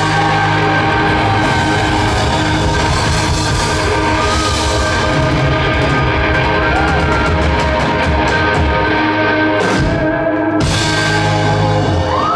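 Live rock band playing with electric guitar and drum kit, with no vocals. The bass and drums drop out for under a second about ten seconds in, then come back in.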